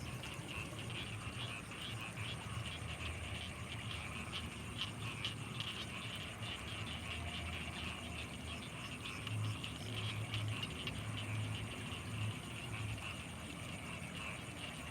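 Night chorus of frogs and insects in rice fields: a dense, fast, chattering trill throughout, over a thin steady high tone. Low pulsing croaks come and go, strongest from about nine to thirteen seconds in.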